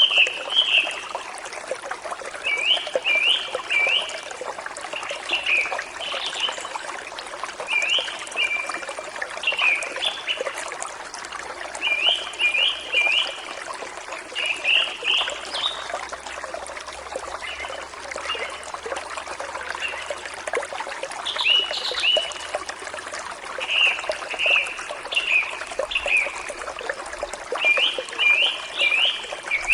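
A forest stream trickling and flowing steadily, with a bird singing short phrases of three or four quick notes, repeated every couple of seconds.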